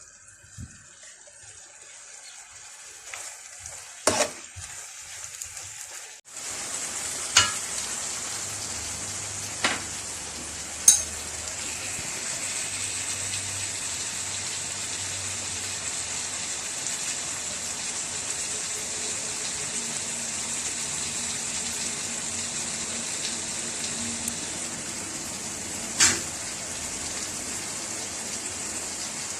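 Vegetables and seafood sizzling in a paella pan: a steady frying hiss that comes in about six seconds in, with a few sharp knocks of a utensil against the pan.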